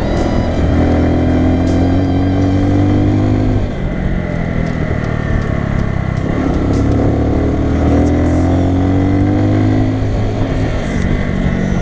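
Bajaj Boxer BM 150's single-cylinder four-stroke engine running on the move. The revs dip about four seconds in, then climb steadily before falling back near the end.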